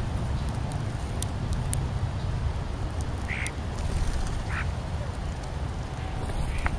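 American crow cawing: three short harsh caws in the second half, over a steady low rumble of wind on the microphone.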